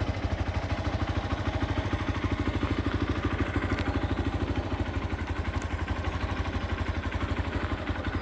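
Motorcycle engine running with a steady, even low thudding pulse, about ten beats a second.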